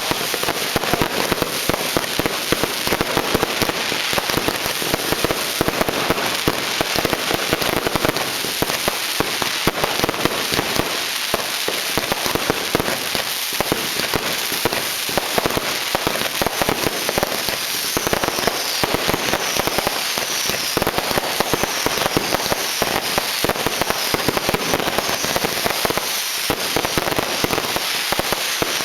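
Fireworks and firecrackers going off in a dense, unbroken barrage: many sharp cracks and pops overlapping, with no pause.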